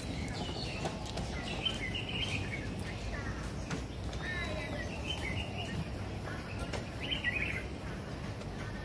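Birds chirping in short, repeated phrases every second or two, over a steady low background noise.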